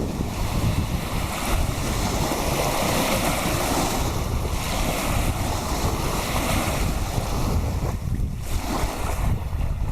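Wake waves from a passing motorboat washing up onto the riverbank, the wash swelling in the middle and easing off near the end, with wind buffeting the microphone.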